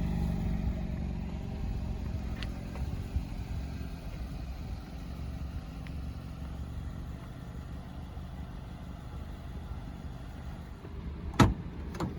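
2017 Nissan Rogue SV's 2.5 L four-cylinder engine idling steadily, with two sharp clicks near the end.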